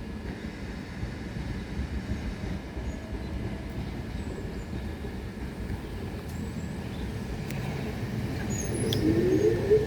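Class 375 Electrostar electric multiple unit rolling slowly on the rails, a low rumble that grows louder near the end, where short rising wheel squeals come in.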